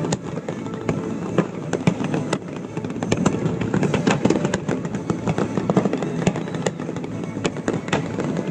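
Dense barrage of fireworks: many sharp bangs and crackles in quick succession, several a second.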